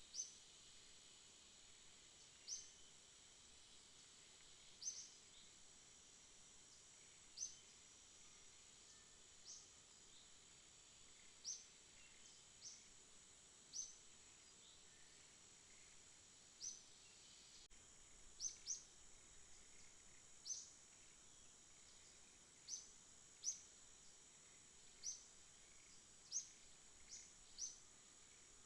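Night ambience: a faint, steady, high insect drone, with short high chirps standing out every second or two at an uneven pace, sometimes in quick pairs.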